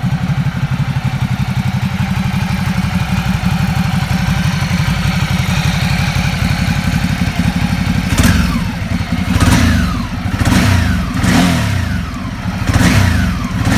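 Ducati Multistrada 1200 S's 1198 cc Testastretta L-twin engine idling with a lumpy beat, then from about eight seconds in the throttle is blipped five times, the revs rising sharply and falling back after each.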